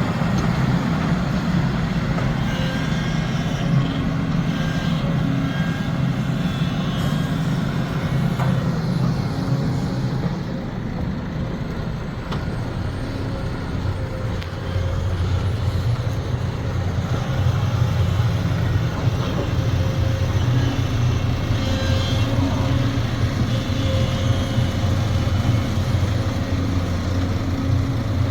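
Heavy diesel engine of a Sumitomo SH370LHD-6 excavator running under load. It eases off for a few seconds about ten seconds in, then works hard again.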